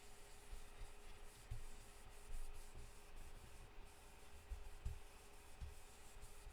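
Faint, steady rubbing of a blending brush working ink onto cardstock, with a few soft low knocks.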